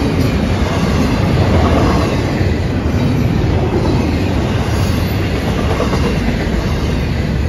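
Florida East Coast Railway intermodal train of double-stack container well cars passing close by: a steady, loud rumble of steel wheels rolling on the rails.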